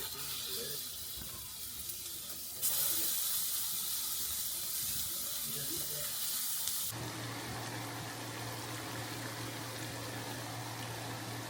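Burger patties sizzling as they fry in a hot pan: a steady hiss that jumps abruptly louder a couple of seconds in and changes again past halfway, when a low hum joins it.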